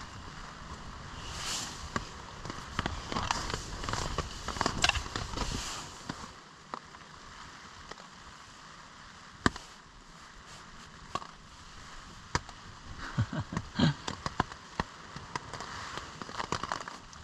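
Rustling with scattered sharp clicks and knocks; the rustling is loudest in the first six seconds, and a quick run of knocks comes about thirteen to fourteen seconds in.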